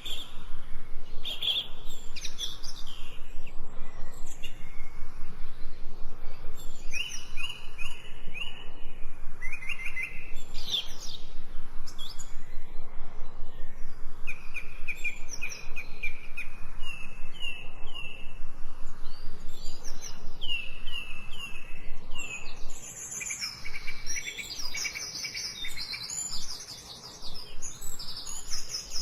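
Several songbirds singing in the forest, overlapping series of short, quickly repeated chirps and whistled notes that keep changing. The calling is busiest near the end.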